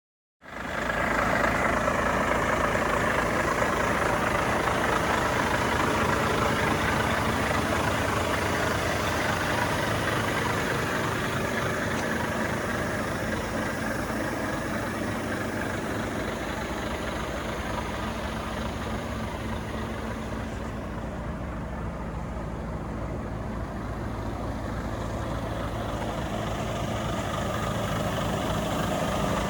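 Engine of a gas-fuelled Volvo FH 500 truck running steadily at idle, with a steady low hum under a broad engine noise; it eases off a little for a few seconds past the middle and comes back up near the end.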